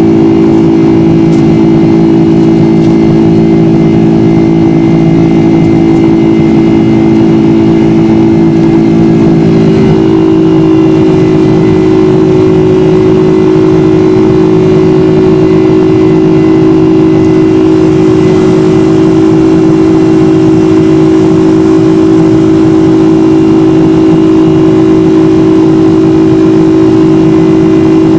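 Boeing 747 jet engines heard from inside the cabin: a loud, steady drone with a humming tone whose pitch pattern changes about ten seconds in.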